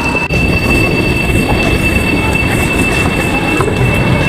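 Noise on a high-speed rail platform beside a CRH train: a steady high-pitched whine over a constant rumbling rush.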